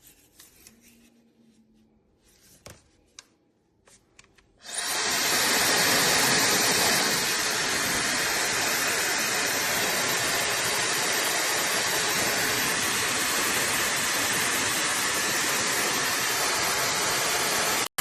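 High-speed JITOOW hair dryer switched on about five seconds in, blowing with a steady loud rush of air that cuts off suddenly near the end. Before it starts there are only a few faint handling clicks.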